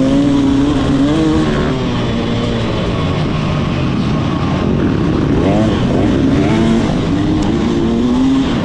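Motocross bike engine revving on a dirt track, its pitch climbing and dropping several times as the rider opens and closes the throttle, over a steady rush of wind and track noise.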